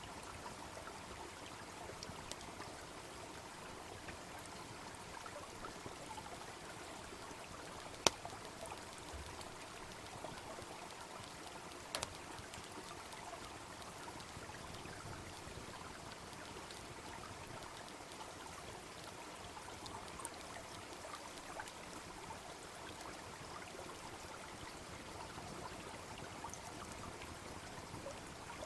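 Small brook babbling steadily, with a few sharp pops from a wood campfire, the loudest about eight seconds in and another about twelve seconds in.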